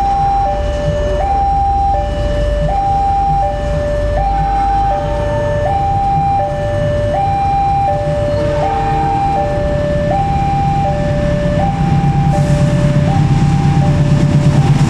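Railway level-crossing alarm sounding a steady two-tone hi-lo warning, switching between notes about every three-quarters of a second. About twelve seconds in, the low rumble of an approaching train builds up beneath it.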